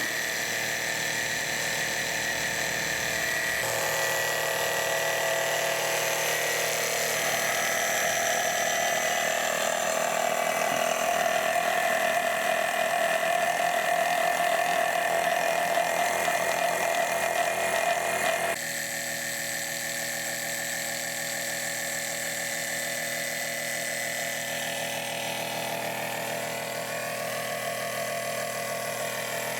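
Proxxon AP 12 oil extraction pump's small motor running steadily with a whine while drawing out engine oil; about two-thirds of the way through its sound changes abruptly and it becomes somewhat quieter.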